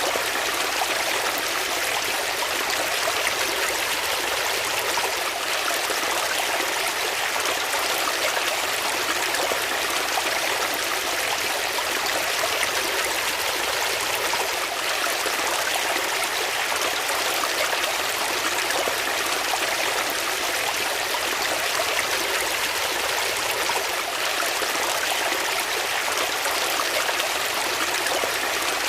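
Water flowing steadily in a stream, a constant rushing and trickling with no breaks or changes.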